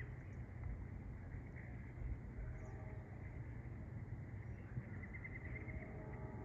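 Small birds chirping in short, quick trills, over a low steady rumble.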